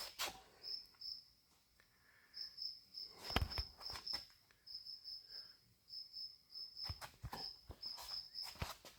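Insects chirping in short, evenly spaced high pulses, with a few light knocks and clicks scattered through, the loudest about three and a half seconds in.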